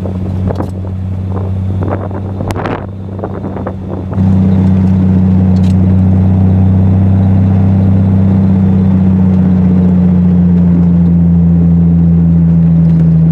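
Triumph TR6's straight-six engine with a Monza exhaust running at steady revs in third gear, with a few knocks in the first three seconds. About four seconds in it abruptly gets louder and holds that level at an unchanged pitch.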